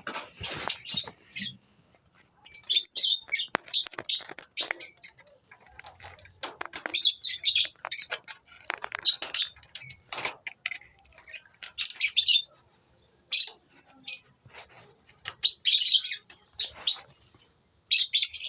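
Lovebirds in a breeding colony chirping and squawking in short, high, repeated bursts, with brief pauses between them.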